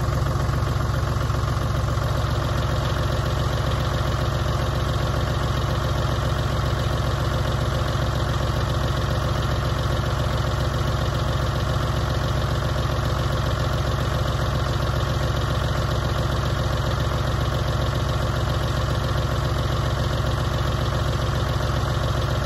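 Tractor engine running steadily, driving a rear-mounted post hole auger while it drills a fence post hole.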